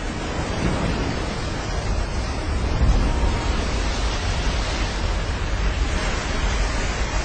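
Heavy ocean surf breaking, with strong wind buffeting the microphone: a dense, steady noise with a deep low-end rumble, swelling slightly about three seconds in.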